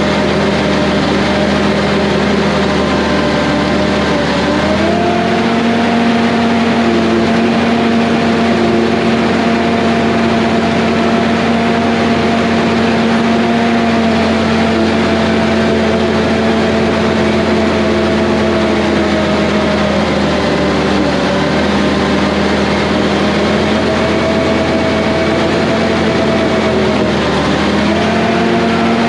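Heavy equipment diesel engine running steadily under load. It revs up about five seconds in, sags briefly around twenty seconds in and again shortly before the end, then picks back up.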